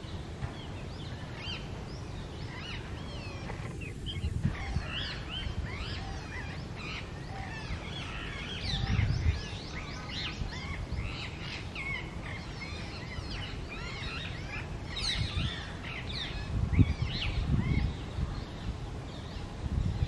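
Many birds chirping and twittering at once, a dense run of short whistled chirps, over a low rumble that swells a few times.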